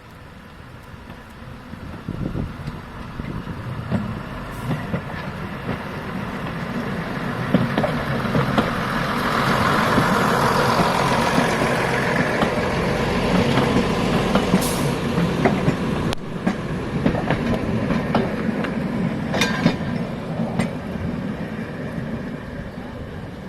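A train passing close by: its rumble and running noise build up, peak around the middle and fade toward the end, with scattered sharp clicks from the wheels.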